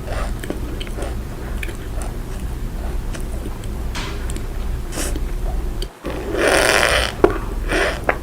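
Cornstarch being squeezed, squeaking and crunching: faint crackles at first, then two louder crunchy squeezes after about six seconds.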